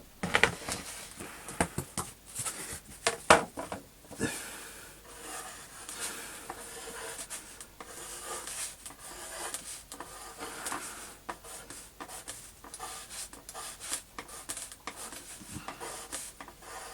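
Hand-drawing strokes, a scratchy rubbing of a drawing tool on a surface, with scattered light taps and clicks. The sharpest taps come in the first few seconds.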